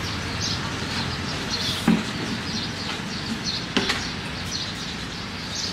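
Small birds chirping repeatedly over steady background noise, with two sharp knocks, about two and four seconds in.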